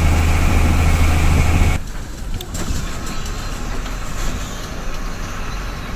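Bus engine running with a loud, steady low hum that cuts off abruptly about two seconds in. Quieter road and vehicle noise follows.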